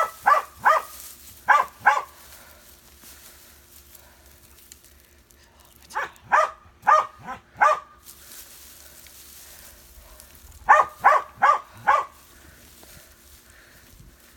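A dog barking in three quick runs of short, fairly high-pitched barks, roughly four to six barks per run.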